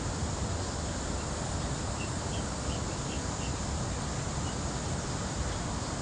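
Steady outdoor background noise with a low rumble, and a quick series of about seven faint, short, high chirps starting about two seconds in.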